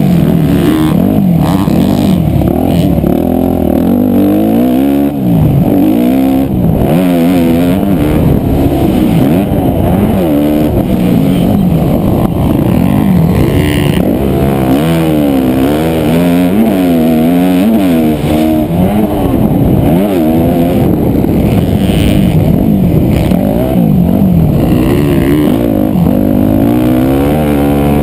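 Motocross dirt bike engine, loud and close, revving up and falling back over and over as the bike is ridden hard around the track, the pitch climbing and dropping every second or two.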